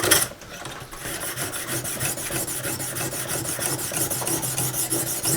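Oiled Lansky sharpening hone, clamped to its guide rod, rasping back and forth along the edge of a saw blade in quick, even strokes. The edge is still at the burr-forming stage.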